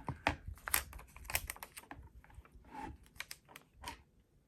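Stickers and paper handled on a desk: a run of light, irregular taps and crackles that die away near the end.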